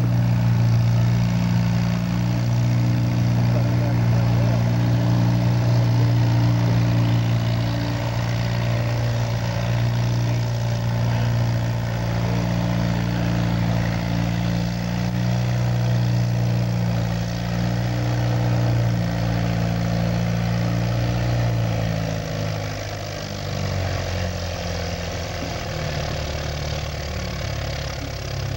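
Farmall 400 tractor's four-cylinder engine running hard under load while pulling a weight sled, its note holding steady, then dropping lower about three-quarters of the way through as the engine lugs down.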